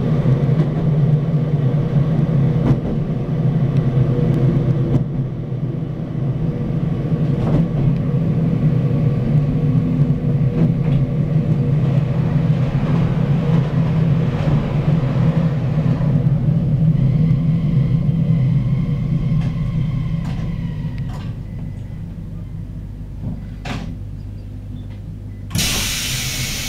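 JR Hokkaido local train running, heard from inside the car: a steady low hum with a few steady tones that grows quieter over the last ten seconds as the train slows. A short, sharp hiss of air comes near the end.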